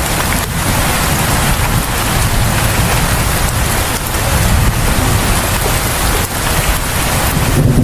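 Steady rain pouring down: a dense, even hiss with a deep rumble underneath.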